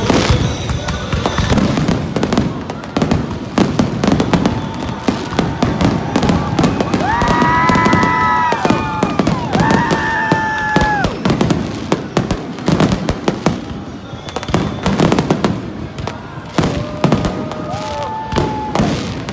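Aerial fireworks going off in rapid succession: dense crackling and popping with bangs throughout. A few held tones sound in the middle and again near the end.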